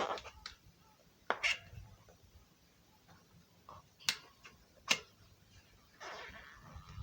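Sharp clicks and taps of parts and tools being handled during a bicycle repair: a pair about a second in, two more a little after the middle, then a brief rustling hiss near the end.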